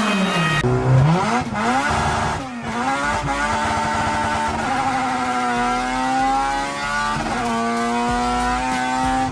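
A car engine revving hard under load, its pitch climbing and then dropping sharply several times as it shifts through the gears.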